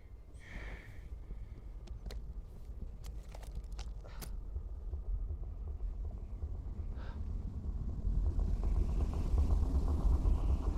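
A deep rumble that grows steadily louder, rising sharply about eight seconds in, with a few faint sharp clicks a couple of seconds in.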